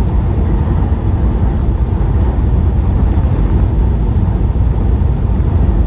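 Steady low rumble of a semi truck's engine and road noise, heard inside the cab while driving.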